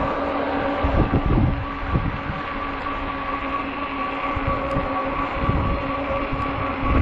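Ecotric 48-volt fat-tire e-bike's electric motor whining at a steady pitch while riding, with wind gusting across the microphone.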